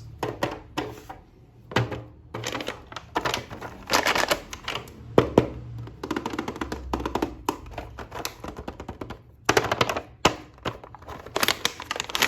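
An action figure's plastic packaging being handled and opened by hand: irregular clicks, knocks and crinkling rustles.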